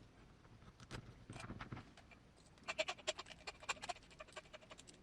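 Small tools and parts being handled during bench work on a small RC crawler: a brief rustle about a second in, then a quick run of light, ringing clicks for about a second and a half.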